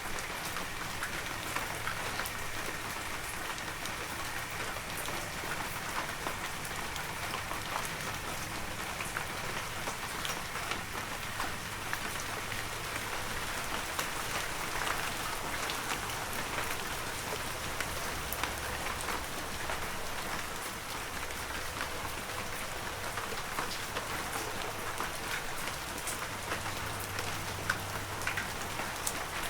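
Heavy rain falling steadily in a forest, a dense hiss of drops with many small sharp drop ticks.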